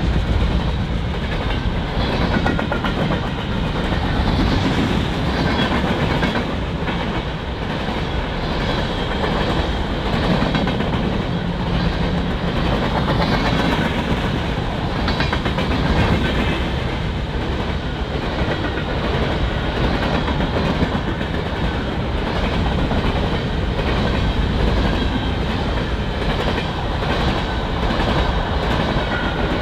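Freight train cars rolling past at steady speed, wheels clacking rhythmically over the rail joints.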